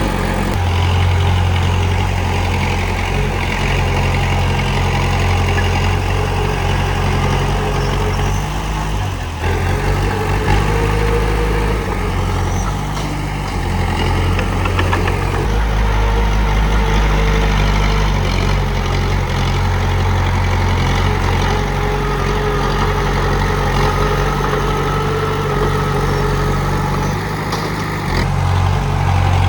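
Komatsu D31P bulldozer's diesel engine running steadily under work, its low note shifting a few times.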